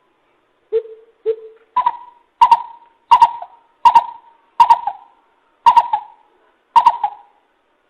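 Coucal (bìm bịp) calling: a series of about nine short hoots, two lower ones near the start, then a steady run of higher hoots roughly one every 0.7 s.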